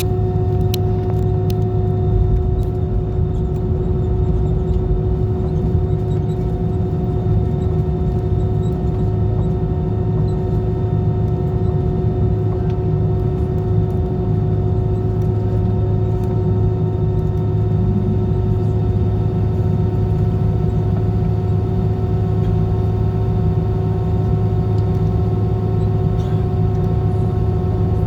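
Airbus A320 jet engines running steadily: a constant low rumble under a steady multi-tone hum that does not change.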